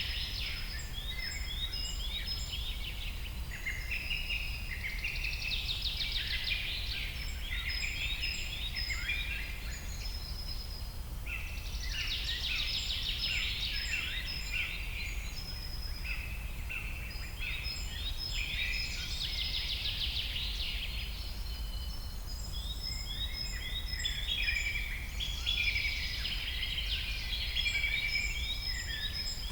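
Songbirds singing: many short chirps and trills overlapping in a busy chorus, coming in louder clusters every few seconds, over a steady low rumble.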